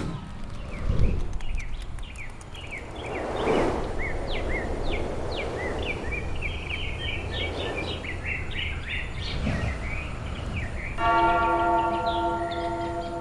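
Birds chirping repeatedly in quick short calls over a low steady rumble, followed about eleven seconds in by a sustained bell-like ringing tone of several pitches.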